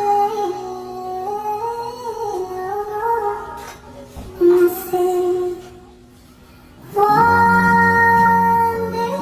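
A song with a woman singing a slow melody. The singing pauses a little after halfway, and a fuller, louder held passage comes in near the end.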